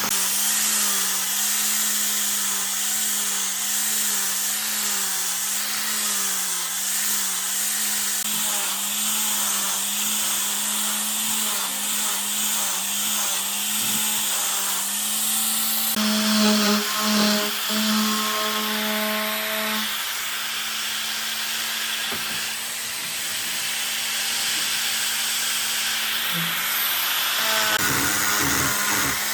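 Electric power tool running steadily while working wood, a constant motor hum under a broad grinding hiss. The sound changes abruptly about halfway through, then carries on in the same way.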